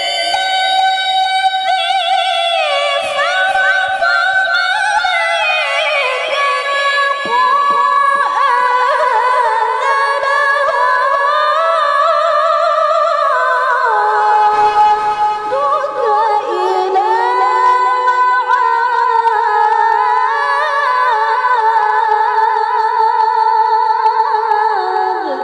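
A woman reciting the Quran in melodic tilawah style, holding one long phrase in a high, clear voice with ornamented turns and glides from note to note.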